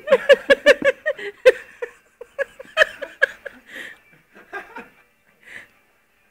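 A person laughing hard: a quick run of pitched laughs, about six a second, that thins out after a couple of seconds into scattered, breathy chuckles and fades away.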